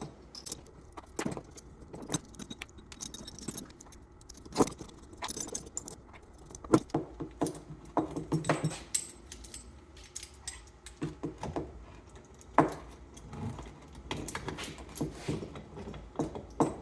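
Loose metal parts of a pulley puller and hand tools clinking and rattling at irregular intervals as the puller is reset and handled.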